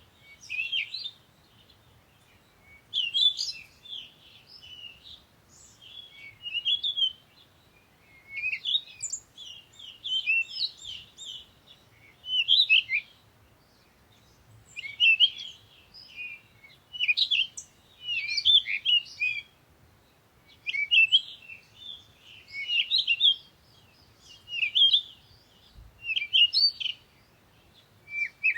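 Songbirds singing: repeated bouts of quick high chirps and twittering, each lasting about a second, with short pauses between them.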